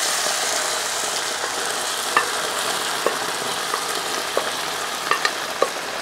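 Beef liver and its cooking liquid poured from a pressure cooker into a kadai of onions frying in hot coconut oil, sizzling steadily, with a few light clicks from about two seconds in.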